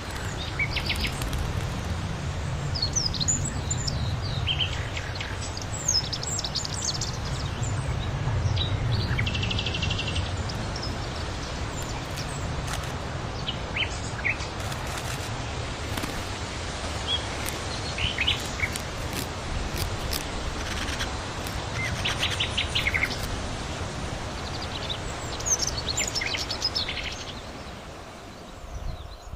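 Birds chirping in short scattered calls over a steady low outdoor rumble, fading down near the end.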